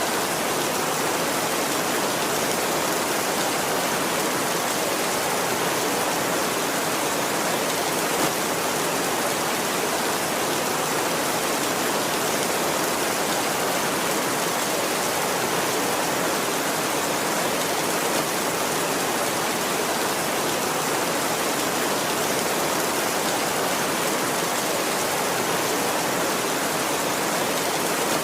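Heavy rain falling steadily on a tin roof, an even hiss of drops with no thunder.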